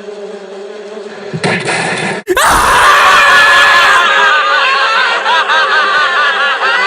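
A steady insect-like buzzing, cut off abruptly about two seconds in by loud, continuous screaming with many wavering voices overlapping.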